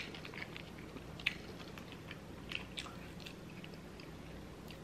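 Close-miked chewing of deep-fried stuffed jalapeno: soft, faint mouth sounds broken by scattered small wet clicks and crackles, one sharper click about a second in.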